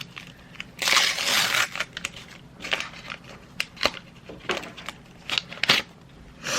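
Pokémon card packaging and cards being handled: a loud crinkling rustle about a second in, then a string of sharp crackles and clicks.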